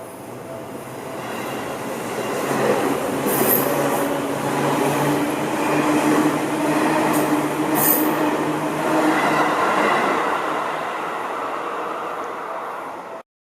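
A Seibu Ikebukuro Line electric train passing over a level crossing, growing louder, running past with wheel and rail noise and a few brief high squeals, then fading. A level-crossing bell rings at the start, and the sound cuts off suddenly near the end.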